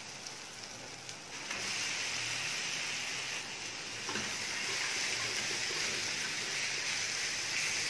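Marinated mutton mince frying on a hot tawa with onion and tomato in oil, a steady sizzle that grows louder about a second and a half in.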